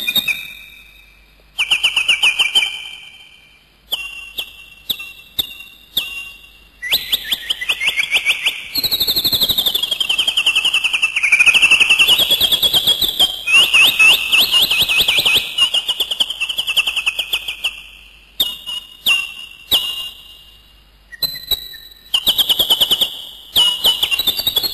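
A bird singing in rapid, high-pitched trills and chirps, in short phrases broken by brief pauses, with one long trill starting about nine seconds in that dips and then rises in pitch.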